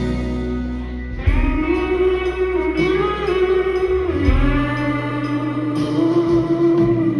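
Rock ballad instrumental passage: a held electric guitar melody line with bends and slight vibrato over bass, between sung lines.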